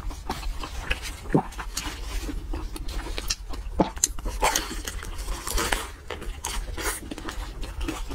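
Close-miked mouth sounds of biting into and chewing a fried roll: a steady run of short wet clicks, smacks and crackles.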